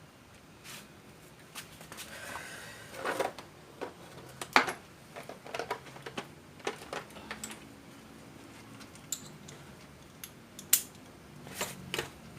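Scattered clicks, knocks and rattles of parts being handled and taken out of an egg incubator during cleaning. There is a brief rustle about two to three seconds in, and the sharpest knocks come near the middle and near the end.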